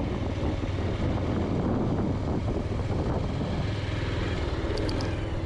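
Bajaj Pulsar motorcycle riding steadily, its single-cylinder engine humming evenly under a rush of road and wind noise. Three short sharp clicks come close together about five seconds in.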